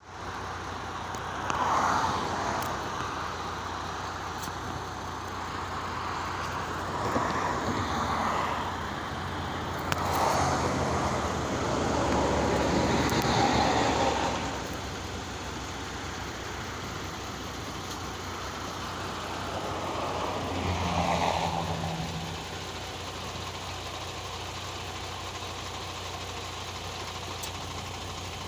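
Truck engine idling steadily, with several louder swells of vehicle noise passing over it, the longest about ten to fourteen seconds in.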